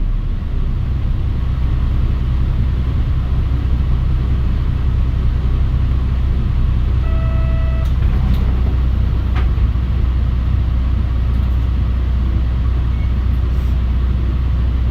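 Mitsubishi Fuso Aerostar city bus driving along, heard from inside the cabin: a steady low engine and road drone. A short electronic beep sounds about seven seconds in, followed by a couple of faint clicks.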